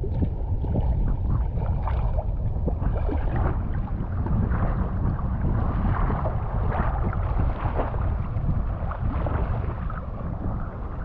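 Wind buffeting the microphone, with water lapping and splashing against a kayak hull out on the open sea. It cuts in suddenly and stays steady, with a heavy low rumble and scattered small splashes.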